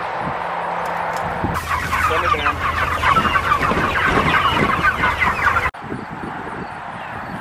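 A flock of Cornish Cross meat chickens clucking and peeping in a dense, busy chorus that starts about a second and a half in and cuts off suddenly near the end.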